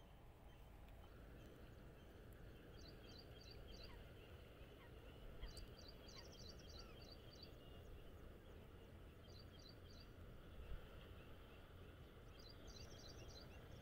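Faint outdoor ambience: a steady low background rumble with four short bursts of quick, high-pitched bird chirps.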